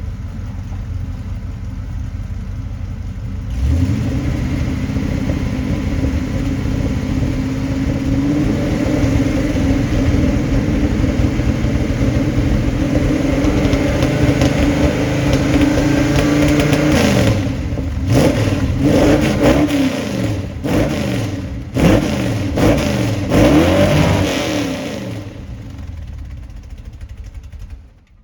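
Dodge 5.9 Magnum V8 running through headers, glass packs and Dynomax Turbo mufflers: idling, then revved up a few seconds in and held at higher rpm. Several sharp throttle blips follow in the second half before the revs fall away near the end.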